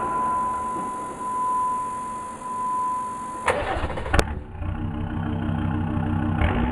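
Jeep Grand Cherokee WJ's 3.1 turbo-diesel five-cylinder engine being started: a steady starter whine for about three and a half seconds, then the engine catches with a burst and a sharp click and settles into a steady idle.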